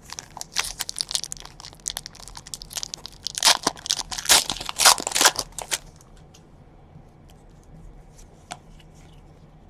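Foil trading-card pack wrapper being torn open and crinkled, a dense crackling for about six seconds, loudest toward the middle, then dying down to a few light crinkles.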